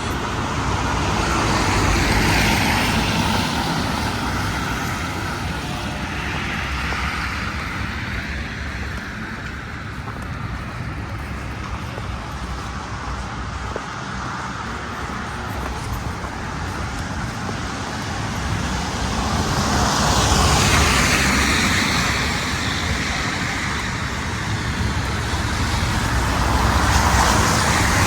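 Street traffic: road vehicles passing one after another, their noise swelling and fading, loudest about two seconds in, again about twenty seconds in and near the end.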